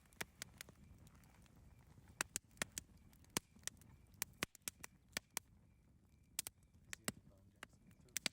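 Campfire crackling: irregular sharp pops and snaps of burning wood, a dozen or more in quick uneven succession, over a low soft rumble.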